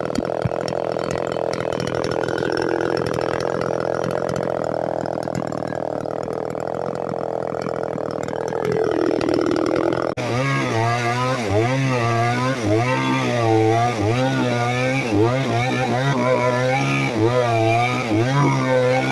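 Small two-stroke chainsaw engine running at a steady speed, then, after an abrupt change about halfway, revved up and down over and over.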